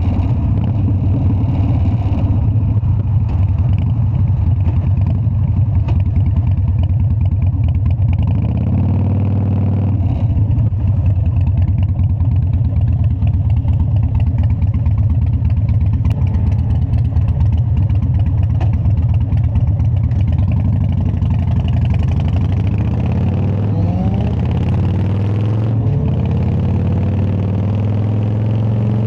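Harley-Davidson Dyna's V-twin engine running with a steady, low, pulsing exhaust note. The pitch shifts briefly about nine seconds in, then climbs over the last few seconds as the engine revs up.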